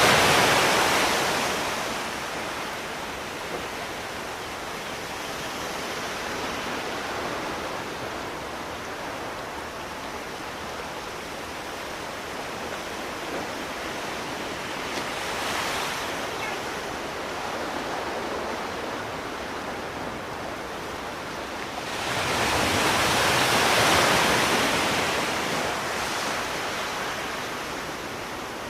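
Sea waves breaking on the shore over a steady wash of surf: one wave is fading at the start, and another breaks at about 22 seconds in, swells and slowly drains away.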